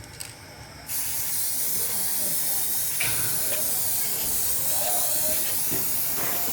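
A steady, loud spraying hiss, like a compressed-air nozzle or spray gun, starts abruptly about a second in and keeps going.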